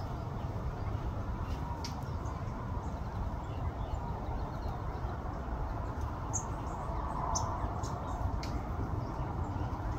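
Outdoor ambience: a steady low rumble with a few short, high-pitched bird chips scattered through it, most of them past the middle.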